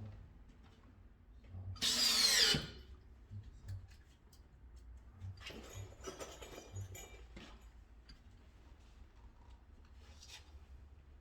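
Cordless electric screwdriver running in a short burst about two seconds in, with a shifting pitch as it drives a screw; fainter tool-handling and scraping noises follow.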